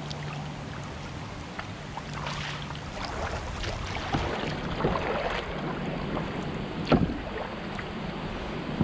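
Kayak paddle strokes dipping and splashing in the water, with wind on the microphone. A sharp knock sounds about seven seconds in.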